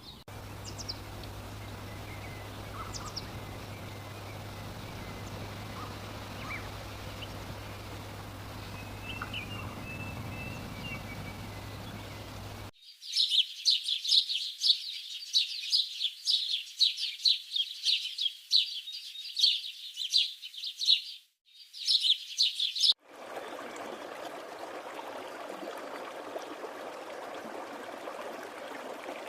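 Birds chirping, in three cut-together recordings. First a few faint bird calls over a low steady hum and background noise; then, about halfway through, roughly ten seconds of loud, rapid, high-pitched chirping, briefly broken off; then a steady rushing background.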